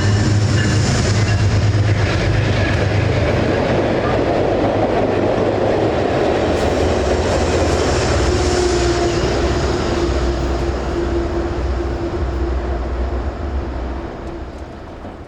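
Metro-North passenger train led by GE P32AC-DM locomotives passing close by: a steady low locomotive hum and rumble with wheel-on-rail clatter. It fades over the last few seconds as the train moves away.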